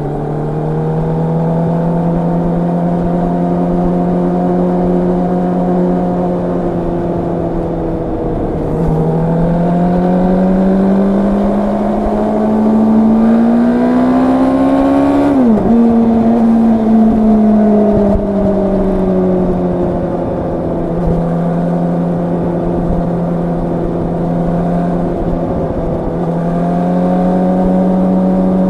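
Yamaha R1's crossplane inline-four engine under way, heard from the bike: a steady cruising note, then the revs climb for several seconds under throttle and drop sharply about halfway through, easing back to a steady cruise and rising again near the end.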